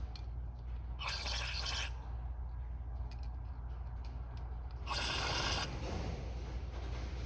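Two short blasts from an aerosol can of brake cleaner spraying, a hiss of about a second each, one about a second in and one about five seconds in, over a steady low hum.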